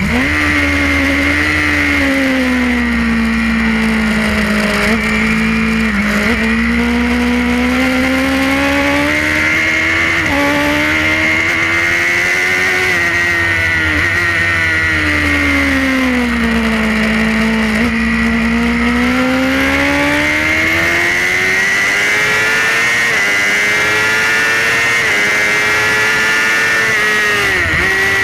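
Onboard sound of a Suzuki GSX-R inline-four racing engine at speed, its pitch rising and falling with throttle and corners and stepping at several quick gear changes, over a steady rush of wind.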